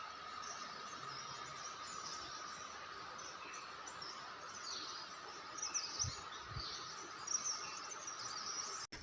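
Forest ambience: a steady insect drone with repeated high bird chirps over it.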